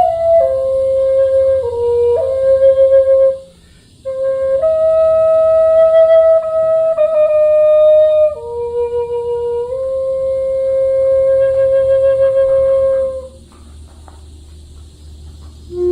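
Solo flute playing a slow melody of long held notes, with a brief pause for breath a little over three seconds in and a quieter lull near the end.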